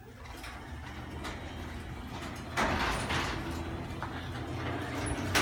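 LiftMaster chain-drive garage door opener running as it raises the door: a steady low motor hum, with the louder rumble of the door travelling up from about two and a half seconds in. It is very quiet for a chain drive, sounding like a belt-drive opener.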